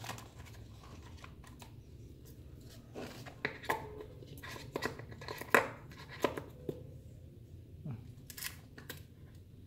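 Packaging being handled as an iPhone 7 and its accessories are put back into the box: rustling of plastic wrap and cardboard, with several sharp clicks and knocks scattered through.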